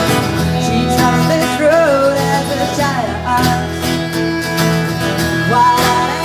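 Live band music with guitar, and a voice singing a held, wavering line about a second in.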